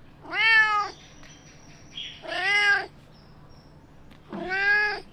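A cat meowing three times, evenly spaced about two seconds apart, each meow about half a second long with the pitch rising then falling.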